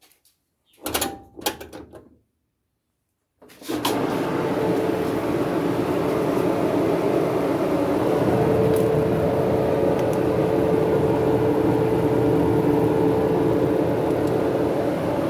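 Kenmore dryer's drive motor running with the drive belt off, after a few brief handling sounds: it starts about four seconds in and runs with a steady hum and a steady tone. The owner hears no problem in the motor.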